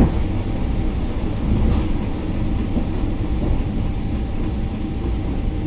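Commuter electric train running between stops, heard from inside the carriage: a steady low rumble of the wheels and running gear, with a sharp knock right at the start and a fainter one under two seconds in.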